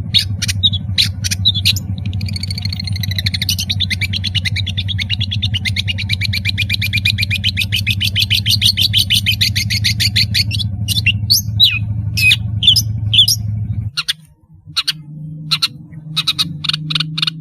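Long-tailed shrike song: sharp separate chirps, then a long rapid trill of quickly repeated notes lasting about eight seconds, then more chirps. A steady low hum runs underneath and cuts off abruptly near the end.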